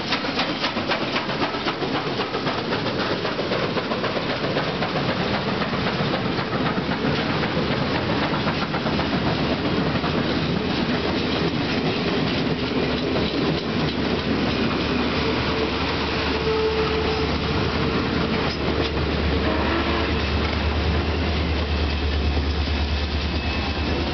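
A steam-hauled passenger train passing close by. Steam locomotive No. 734 and its tender go by first, with dense rapid clatter. The passenger cars follow, rolling and clicking over the rail joints. In the last few seconds the low drone of the trailing diesel locomotive's engine grows loud.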